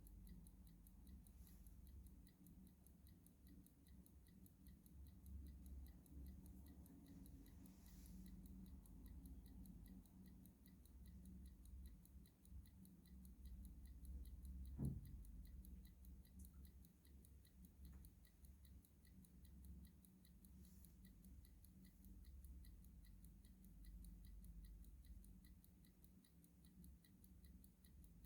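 Clock ticking steadily and faintly over a low background rumble. A single sharp knock about halfway through.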